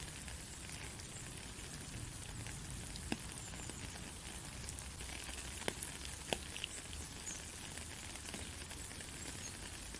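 Steady rain falling on a country road: an even hiss of drops, with a few single louder drops landing close by about three seconds in and twice around six seconds.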